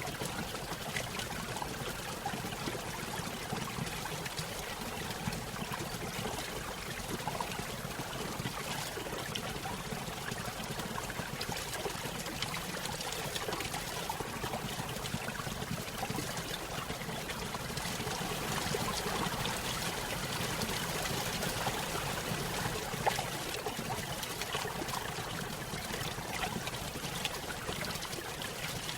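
A small stream spilling over a little waterfall: a steady trickling and splashing of water, swelling slightly for a few seconds past the middle.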